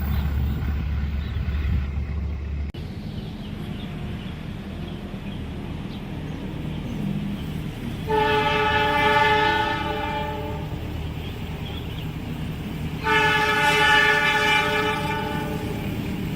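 Train locomotive's air horn sounding two long blasts, the second starting about five seconds after the first, over the steady low rumble of the train. A loud low hum at the start cuts off suddenly about three seconds in.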